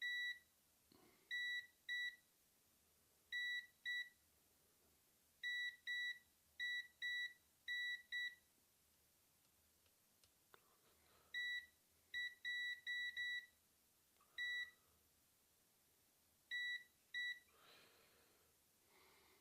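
Multimeter continuity beeper giving short high beeps in clusters of two to five as the probes touch one capacitor after another; each beep signals a short across a capacitor on the amplifier's circuit board.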